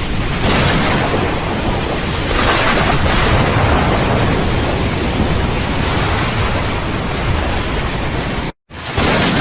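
Steady heavy rain with rolling thunder swelling up twice in the first few seconds. Near the end the sound cuts out to silence for a moment, then comes straight back.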